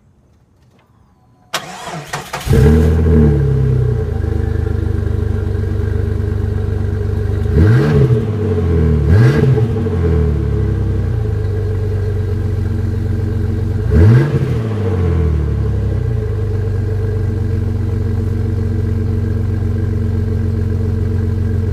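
A Jeep engine is started about a second and a half in, catches and idles, and is blipped briefly three times, twice close together and once more later, before settling back to a steady idle. The exhaust is leaking at the Flowmaster muffler.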